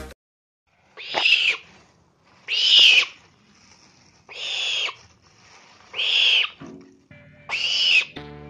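An owl calling five times, about a second and a half apart, each call a short screech that rises and then falls in pitch.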